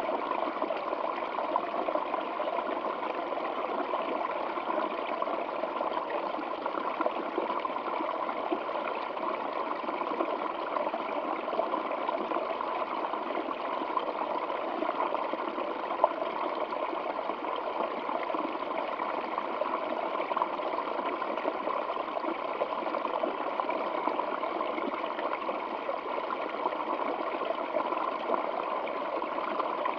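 Running water trickling and gurgling steadily, with no let-up.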